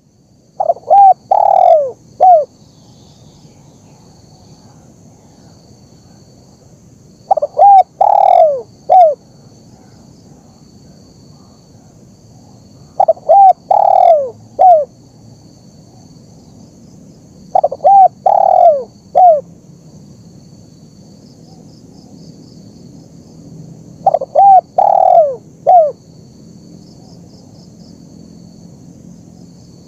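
Spotted dove (tekukur) cooing: five phrases of low, falling coos, each a couple of short notes, a longer drawn note and a short closing note, repeated about every five to six seconds.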